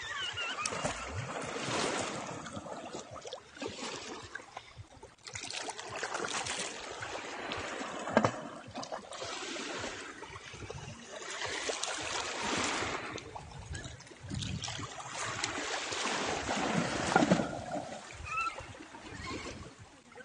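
Sea water washing and splashing, swelling and fading every few seconds like small waves coming in.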